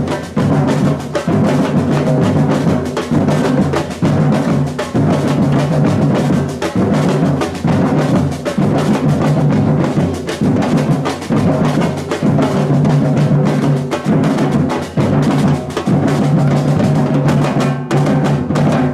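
Batucada samba percussion group playing: many drums beating a fast, dense rhythm over deep bass drum tones, stopping abruptly at the very end.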